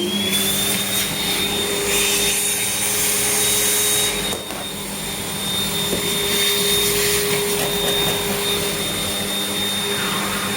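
Morphy Richards 1500-watt vacuum cleaner running steadily with a high motor whine, reaching full speed within the first second. The loudness dips briefly about four seconds in.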